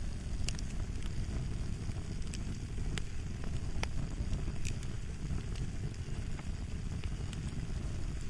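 Fire crackling: a steady low rumble with sharp, irregular pops and snaps every second or so.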